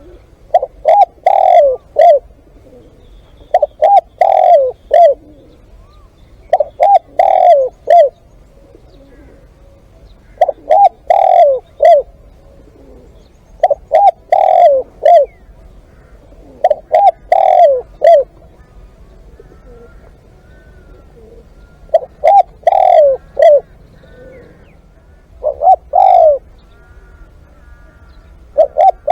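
Spotted dove cooing at close range: a short phrase of four or five coos, repeated about every three seconds, eight phrases in all.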